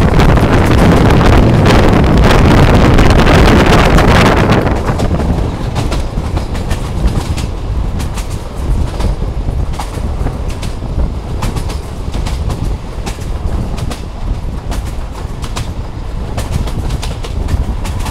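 Moving passenger train heard from an open carriage window: loud wind rush on the microphone for the first four seconds or so, then quieter rolling noise with frequent clicks of the wheels over rail joints.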